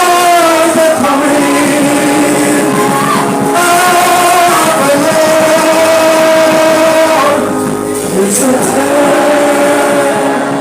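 Slow worship singing with instrumental accompaniment: long, held sung notes that shift pitch every second or two.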